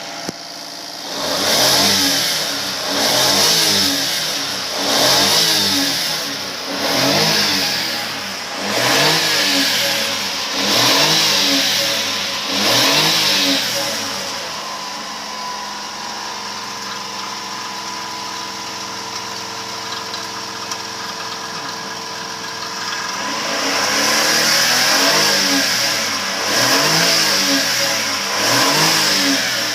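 Honda Acty HA4's E07A three-cylinder engine blipped repeatedly, its pitch rising and falling about every second and a half. It settles into a steady idle about halfway through, then is revved again several times near the end. It runs with no abnormal noises.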